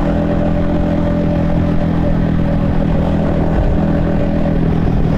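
Yamaha XSR155's 155cc single-cylinder engine running at a steady, even pitch, heard from the rider's helmet.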